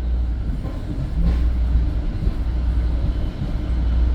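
EXO commuter train running along the track, heard from inside the passenger car as a steady low rumble.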